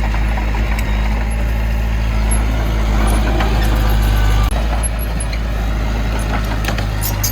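Heavy diesel engine of earthmoving machinery running steadily under load, with a few short metal clanks. It eases off slightly about halfway through.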